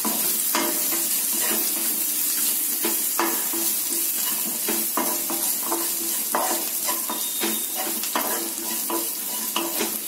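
Chopped shallots and garlic sizzling in hot oil in a nonstick kadai, stirred with a wooden spatula that scrapes and knocks against the pan in quick, uneven strokes over a steady hiss of frying.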